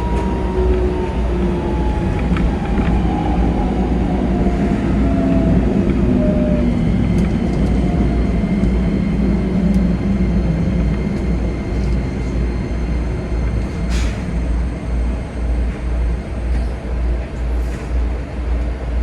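Keikyu 2100-series electric train's traction motor and inverter whine falling in pitch as the train brakes, fading out about six seconds in as it comes to a stop. A steady rumble and noise follow, with a sharp click near the end.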